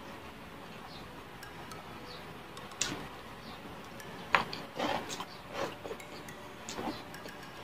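Close-miked eating sounds: chewing a mouthful of rice and dried fish by hand, with a handful of sharp wet smacks and clicks in the second half.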